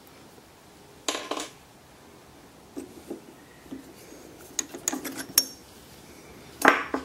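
Workshop handling noises: a string of metallic clinks and clatters as tools and a drill bit are picked up and set down. There is a louder clatter about a second in, a run of sharp clicks in the middle, and another loud clatter near the end.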